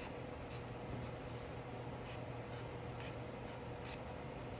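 Short scratchy strokes of a drawing tool on paper, drawing zigzag lines, about one or two a second over a steady low hum.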